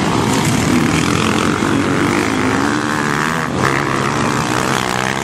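Motocross bike engines running hard on the track, loud and continuous, their pitch rising and falling as the riders work the throttle.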